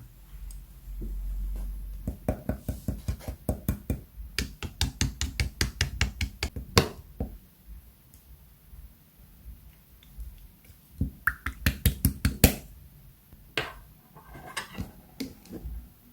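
Slime being pressed and squeezed by hand, making quick runs of sharp clicks and pops.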